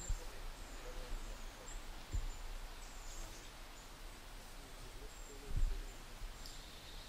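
Quiet woodland ambience with several short, faint, high-pitched bird chirps. Three low thumps on the microphone, the loudest a little past halfway.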